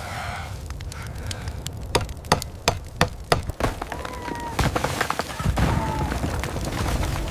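A rapid series of sharp cracks and knocks, then a low rumble building near the end over a steady noise bed.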